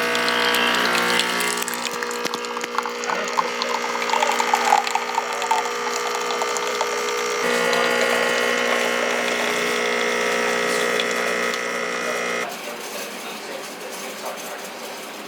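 A motor-driven machine running with a steady hum and a rattling, clicking mechanical noise. The hum fades for a few seconds, comes back strong, then cuts off about twelve seconds in.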